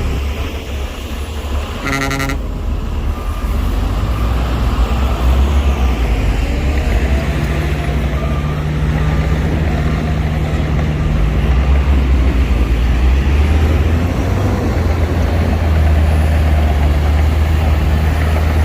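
Heavy earthmoving machinery's diesel engine running with a steady deep drone, with a short horn toot about two seconds in.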